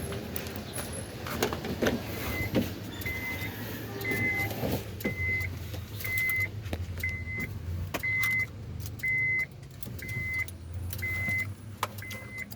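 Short high electronic beep repeating about once a second from the 2001 Honda Civic, starting about two seconds in, over a steady low hum with scattered clicks and knocks.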